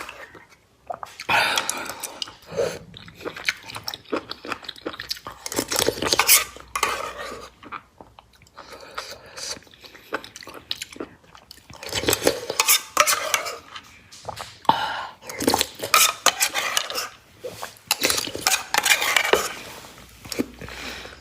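Close-up eating sounds: a spoon clinking against a bowl, with chewing of the soup's abalone, sea cucumber and tendon, in irregular bursts.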